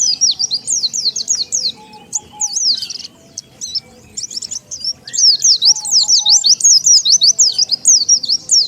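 Pleci (white-eye) birds chirping in rapid, high twittering runs of short sweeping notes, with a pause of about two seconds in the middle.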